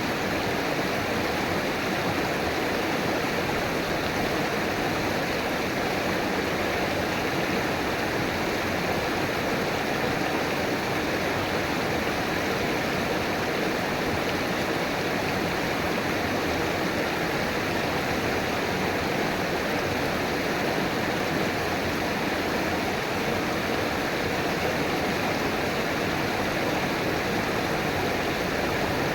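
River water flowing over rocks: a steady, even rushing and babbling with no breaks.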